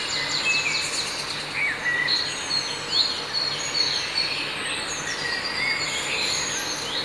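Several birds chirping and calling, with short overlapping chirps that glide up and down, over a steady hiss of background noise.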